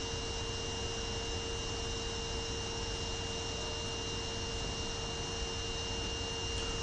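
Steady electrical hum at a subway platform: a constant mid tone and a thin high whine over an even hiss, unchanging throughout.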